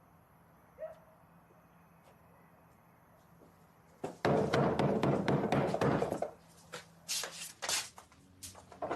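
Quiet room tone with a faint click, then, about four seconds in, a couple of seconds of dense clattering followed by several separate sharp knocks.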